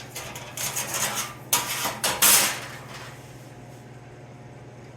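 A series of short scraping and clattering sounds from sheet metal and tools being handled while marking out a cut, the loudest about one and a half and two and a quarter seconds in, over a steady low shop hum.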